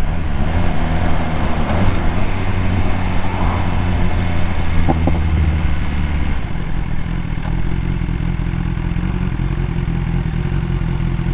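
BMW S1000R's inline four-cylinder engine running steadily under way, with a rushing noise of riding over it; about six and a half seconds in the deepest part of the engine note drops away and it runs on a little quieter.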